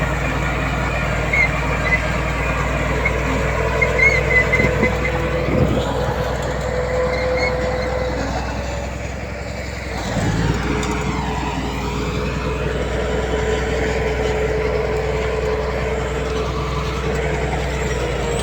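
Heavy diesel earthmoving machinery running steadily, with a held whine over the engine drone. The sound eases off briefly about nine seconds in, then picks up again.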